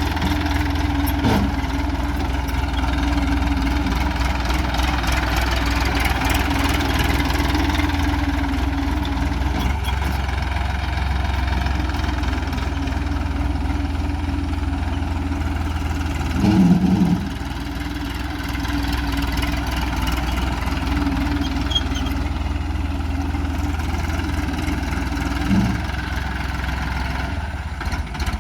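Farm tractor's diesel engine running steadily, with one brief louder surge a little past halfway.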